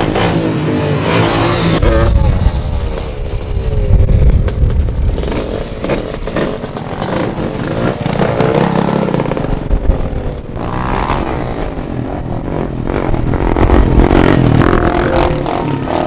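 Dirt bike and four-wheeler engines revving up and down, their pitch rising and falling repeatedly, with wind buffeting the microphone.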